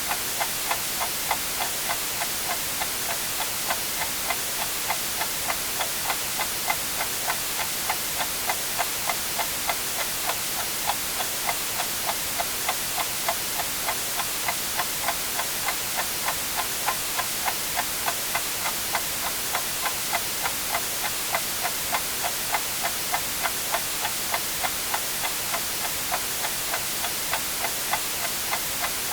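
A clock ticking evenly about twice a second over a steady white-noise hiss.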